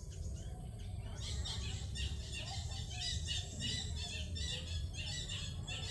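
A bird calling over and over in short high-pitched squawks, about two or three a second, starting about a second in, over a low steady rumble.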